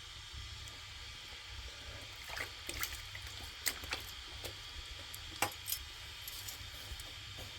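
Faint water sounds, dripping and splashing, with a few sharp clicks and ticks scattered through the middle over a steady low hiss.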